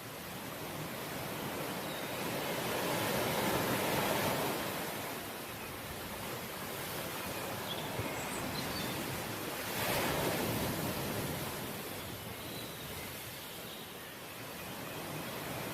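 Ocean waves washing onto a shore in a steady hiss, swelling about three seconds in and again about ten seconds in as waves break.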